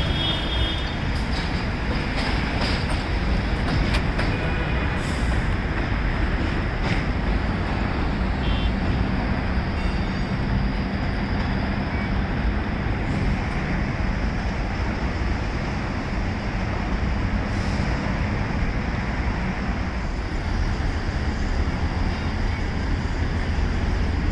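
Subway train running on an elevated line, a steady rumble with a few sharp clicks in the first several seconds.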